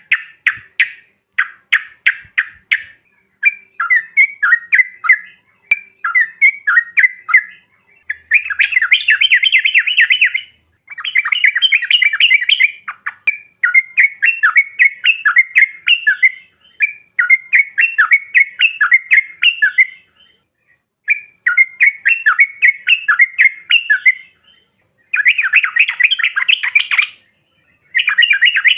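Yellow-vented bulbul (trucukan) calling in loud bursts of rapid chattering notes, each phrase one to three seconds long with short pauses between; some phrases run into a long, fast trill.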